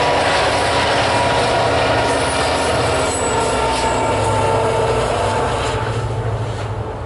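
Diesel locomotive at the rear of a loaded grain train passing and moving away, a steady engine drone over the rumble of wheels on the rails, fading near the end.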